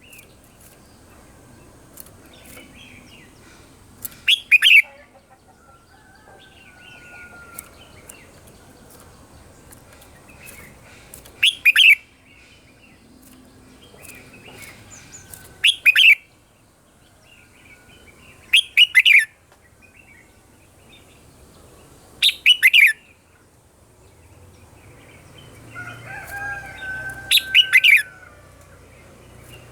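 Red-whiskered bulbul singing: short, loud, sweeping phrases every three to four seconds, about six in all, with softer chirps in between. Near the end a steadier whistled note runs under the song.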